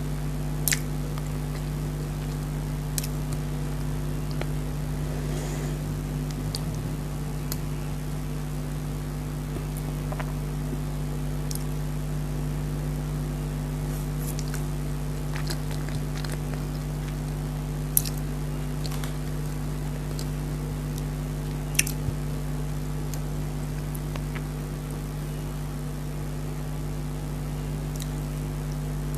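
Someone eating chocolate cake, with a few sharp mouth clicks and smacks scattered through a long stretch, over a steady low hum.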